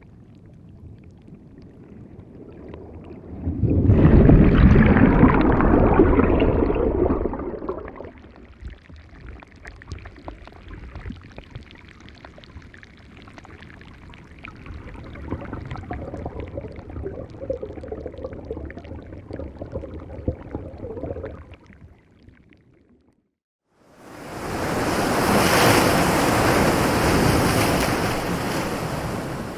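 Ocean surf washing on a beach. A wave surges in about four seconds in, heavy in the low end, then eases to a lighter, steady wash. The sound drops out for about two seconds near the end, and a brighter, hissier surf wash comes in after the gap.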